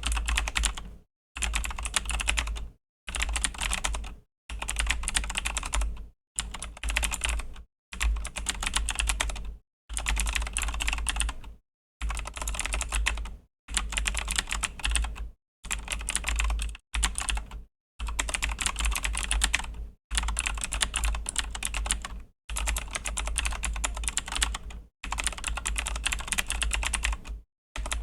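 Fast typing on a Razer BlackWidow V3 mechanical keyboard with Razer Green clicky switches, each keystroke a sharp click. The typing comes in runs of about one to two seconds with brief pauses between them.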